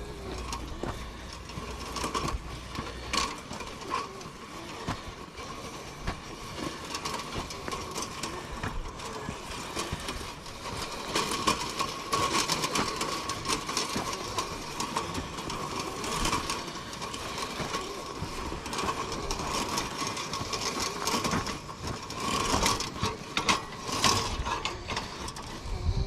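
Campfire burning, a dense run of irregular crackles and pops from the wood.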